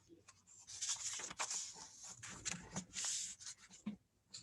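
Book pages rustling and being turned, with small clicks and taps of handling.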